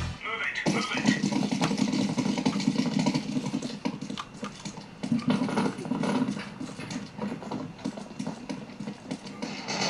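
Video game audio played through an Armaggeddon X-Bar 2 soundbar: a low steady drone with scattered knocks and clicks.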